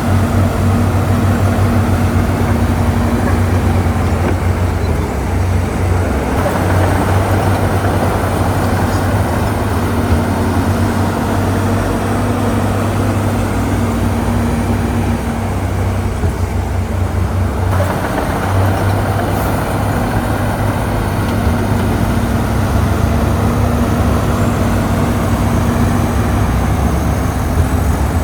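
Heavy diesel engine of a crawler bulldozer running steadily under work, a constant low drone whose tone shifts a little a couple of times.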